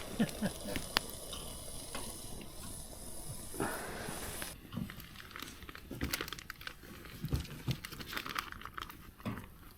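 Kettle on a campfire singing, a steady hiss as the water heats toward the boil, with scattered small clicks. The hiss cuts off suddenly about four and a half seconds in.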